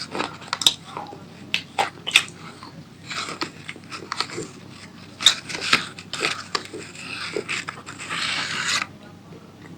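Close-up crunching and chewing of crunchy tomato pasta. Sharp single crunches come in the first few seconds, with denser runs of crunching around three to four seconds in and near the end.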